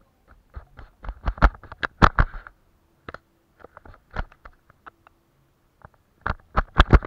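Close-up painting sounds: irregular soft taps and short scratchy strokes of a brush working on paper, in quick clusters about a second in and again near the end, with a quieter gap between.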